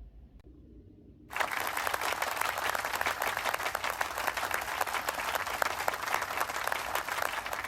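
Applause: hands clapping, starting suddenly about a second in as a dense patter, then thinning toward the end.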